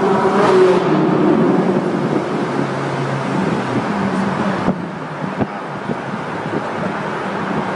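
Ferrari 458 Italia's V8 heard from inside the cabin in a tunnel. The climbing engine note fades after about a second, leaving a steadier, lower drone of engine and road noise. Two short knocks come about halfway through.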